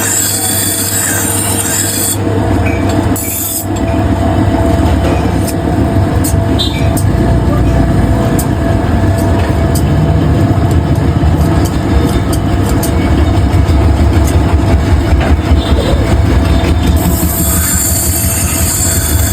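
Scissor blade being ground on a motor-driven sharpening wheel: a steady, loud grinding noise with a metallic squeal. It eases briefly two to three seconds in, then runs fuller to the end.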